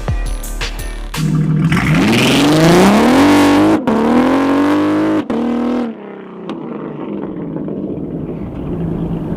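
Supercharged 3.6-litre V6 Camaro through a 3-inch MBRP cat-back with Carven mufflers, pulling at full throttle. The exhaust note climbs in pitch, with brief breaks at two gear changes, then drops to a lower, steady note as the throttle comes off about six seconds in. A few short, sharp sounds come in the first second.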